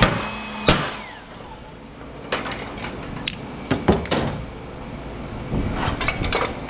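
Sharp metal knocks and clanks from breaking apart lighting-ballast transformers: a loud bang at the start as a steady motor hum cuts off, another hit under a second in, then scattered knocks and clatter, bunched toward the end.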